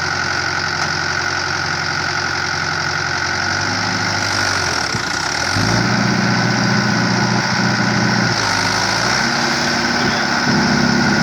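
Tractor engine running steadily. It is revved up about five seconds in, eases off briefly near eight seconds and revs up again, over a steady high whine.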